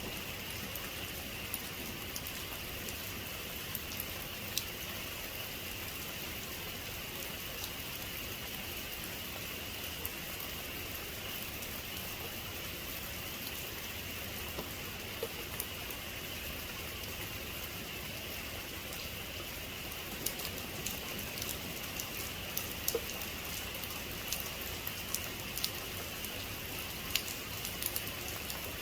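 Heavy rain falling steadily, a dense even hiss with sharp ticks of individual drops striking close by, which come more often in the last third.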